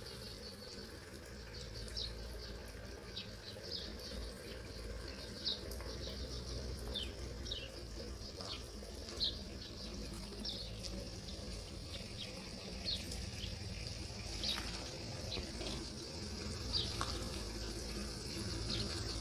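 Small birds chirping, short high falling calls scattered through, over a steady hiss and a low rumble of wind.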